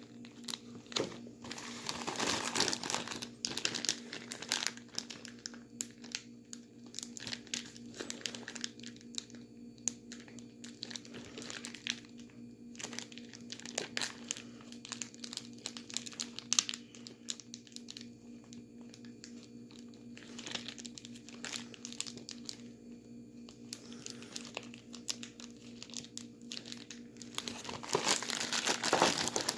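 Plastic bag holding ice, salt and a bagged drink crinkling and rustling in uneven bursts as it is handled and shaken to freeze the drink into slush, busiest about two seconds in and again near the end. A faint steady hum runs underneath.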